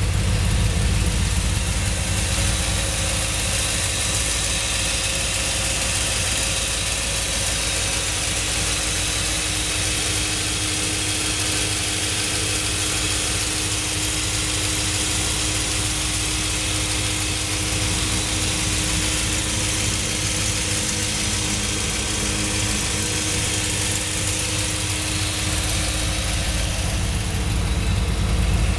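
The restored 1946 Woody's carburetted V8 idling steadily, heard close up. A low, even engine note sits under a steady hiss.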